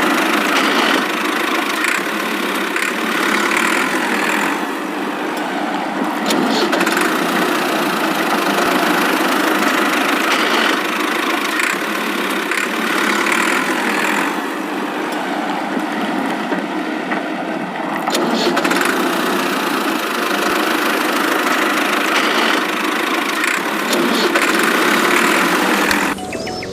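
Toy tractor or dumper truck running, giving a steady engine-like noise with no deep bass that swells and eases a little; it cuts off abruptly near the end.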